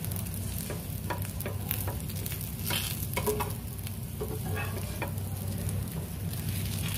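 Masala dosa sizzling in oil on a hot tawa, with scattered crackles and the scrape of a spatula as the dosa is folded over.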